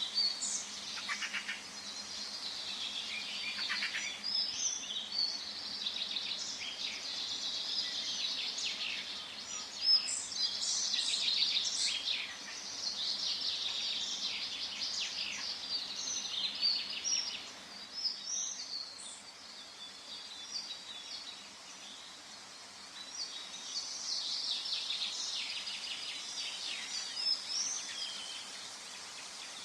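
Forest birds chirping and twittering in quick, high, overlapping phrases, with a quieter lull about two-thirds of the way through, over a faint steady background hiss.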